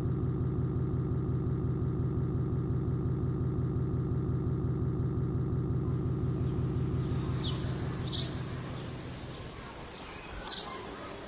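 An engine running steadily with a fast, even pulse, then fading away over a couple of seconds after about seven seconds in. A few short high chirps follow near the end.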